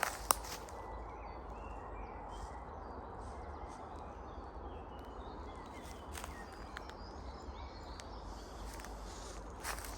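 Woodland ambience: a steady low hiss with faint, scattered bird chirps. There is one sharp snap or click just after the start, and a few light rustles and footsteps in the second half.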